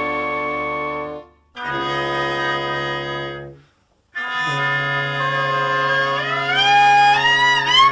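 Band music score with brass to the fore. Held chords break off twice, then a melody climbs step by step over a sustained chord.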